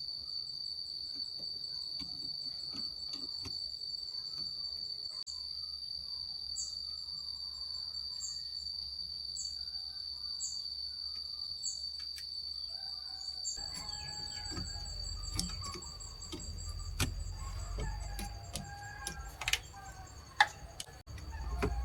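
Crickets trilling in one steady high note, with short high chirps repeating about once a second early on. About halfway through, a low rumble with scattered clicks and knocks joins in.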